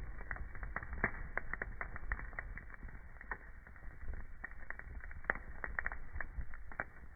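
Wood fire crackling in a fireplace: frequent, irregular sharp snaps and pops over a low, steady rumble of burning.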